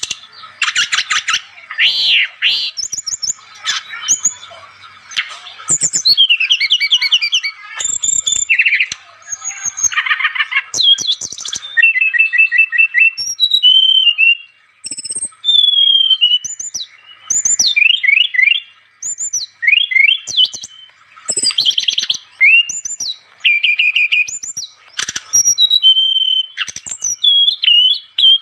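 Brown-chested jungle flycatcher (SRDC, sikatan rimba dada coklat) singing loudly in full voice, a recording used to lure birds. A varied, chattering song of quick trills, rising and falling whistles and short repeated note strings, delivered in phrases with brief pauses between them.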